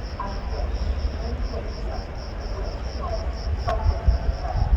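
Crickets chirping in a steady, rapid pulse of about four to five chirps a second over a low rumble, with one sharp click about three and a half seconds in.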